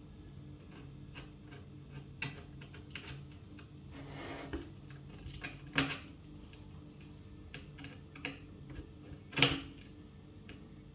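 Scattered, irregular clicks and clacks of an IBM Model M keyboard and its plastic parts being handled, with a short scrape about four seconds in and two sharper, louder knocks near six and nine seconds.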